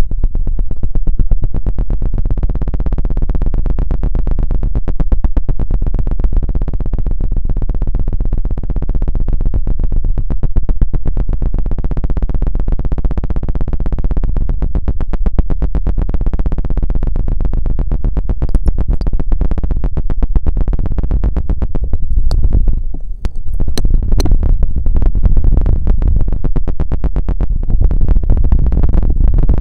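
A feather rod scratched and tapped very fast directly against the microphone: a dense, unbroken run of rapid strokes over a heavy low rumble, with a brief dip about three-quarters of the way through.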